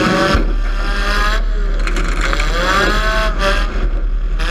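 Demolition derby cars' engines revving hard as the heat gets under way, their pitch rising and falling again and again over a heavy, steady low rumble.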